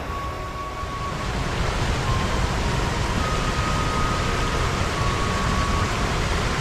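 Rushing water of a mountain valley stream, a steady noise that grows louder about a second and a half in.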